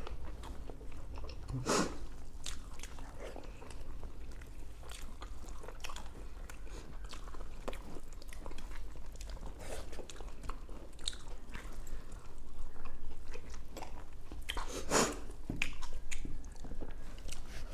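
Close-up eating sounds of people eating South Indian tiffin such as idli and sambar-soaked vada: chewing and mouth smacks with scattered short clicks, the sharpest about two seconds in and again near the end, over a steady low hum.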